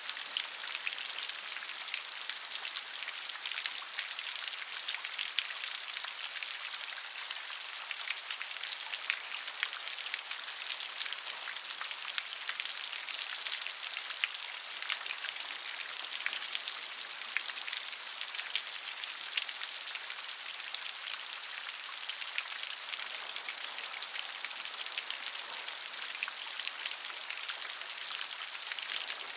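Steady rain falling, a dense hiss of countless small drops pattering on a surface.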